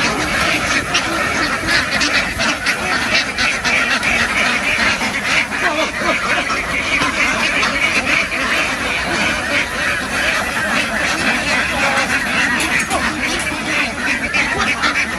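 Flock of free-range domestic ducks, many quacking at once in a steady, unbroken chorus.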